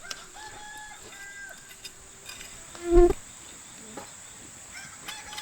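Steady high-pitched insect chorus, crickets or similar, running through. Over it come a few short calls held on one pitch, and one loud brief sound about three seconds in.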